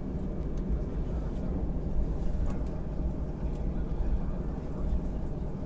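Low, steady rumble of an airfield, with a few faint clicks.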